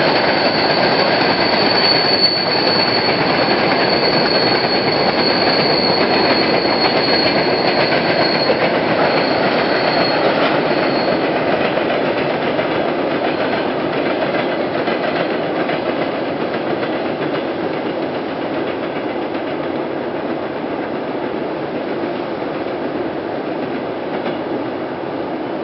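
Long freight train of tank cars rolling along the track, a steady rumble of wheels on rail with a thin high wheel squeal that fades out about ten seconds in. The rumble slowly grows quieter as the train moves away.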